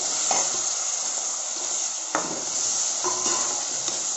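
Chopped tomatoes sizzling as they fry in hot oil and onion-spice masala in a pan, while a metal spoon stirs them and knocks against the pan about three times.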